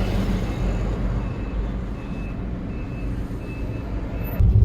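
Steady low rumble of a car driving through city streets, with a series of short high beeps repeating roughly every 0.7 s. Near the end the rumble suddenly gets much louder.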